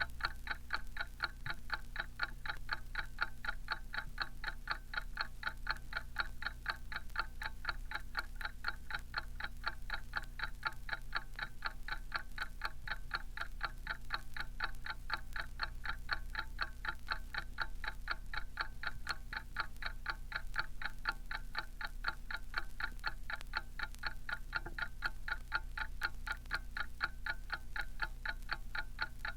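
Mechanical alarm clock ticking, with fast, perfectly even ticks at about four to five a second. A steady low hum sits beneath the ticking.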